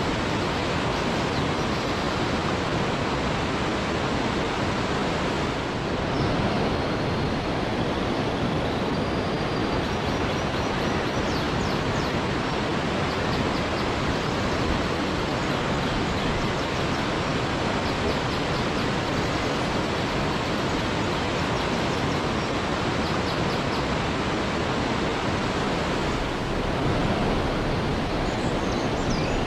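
Waterfall rushing in a steady, unbroken roar of falling water, with faint high chirps now and then.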